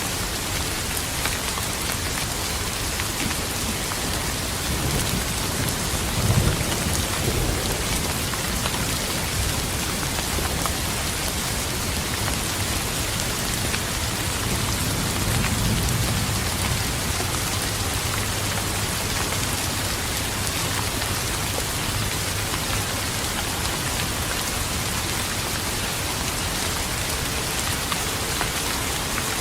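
Steady rain falling, with two low rolls of thunder: one peaking about six seconds in, and a longer, broader rumble around halfway through.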